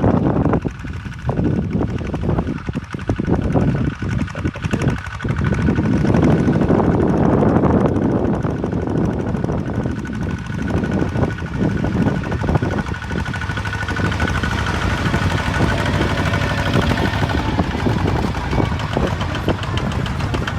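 Kubota ZT155 DI single-cylinder diesel engine running steadily, with a rapid, even chugging of firing pulses.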